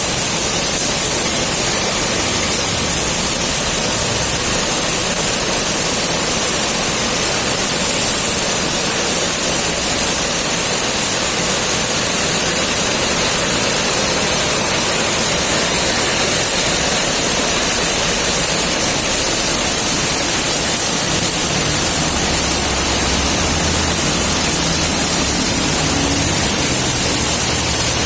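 Rain pouring steadily, a loud, even hiss.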